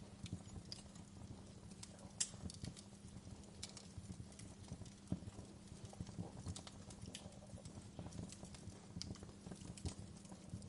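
Wood fire crackling, with irregular pops and snaps, one sharper pop about two seconds in, over a steady low hum.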